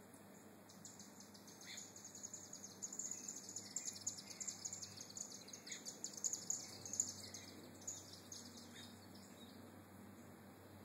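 A bird twittering faintly: a fast, high-pitched chatter that starts about a second in and stops about seven seconds in, with a few short, lower chirps.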